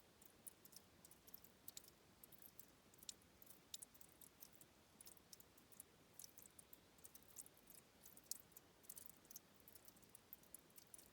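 Very faint spring water at a river's source, trickling and dripping as many small, irregular high-pitched ticks, several a second, over a low hiss.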